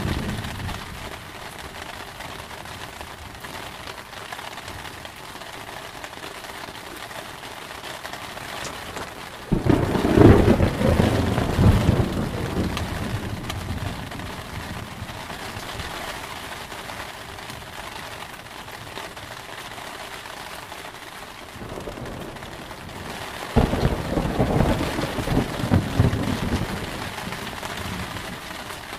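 Steady heavy rain with two rolls of thunder. Each starts abruptly and rumbles for a few seconds, one about a third of the way in and one near the end.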